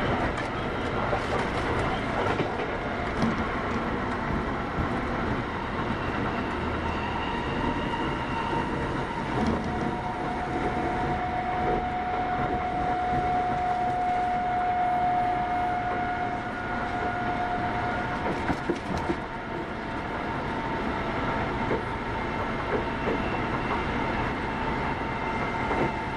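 Kintetsu 8810 series electric train running at speed, heard from inside the car: steady rolling and motor noise with occasional clicks from the track. A clear steady whine holds for several seconds in the middle.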